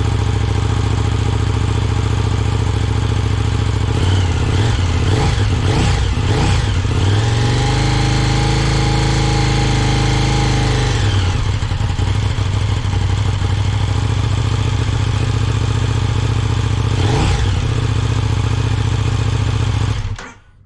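2020 KTM 1290 Super Duke R's V-twin engine through its stock exhaust, idling, then blipped several times about four seconds in and held at higher revs for a few seconds before dropping back. It is blipped once more, then shut off near the end.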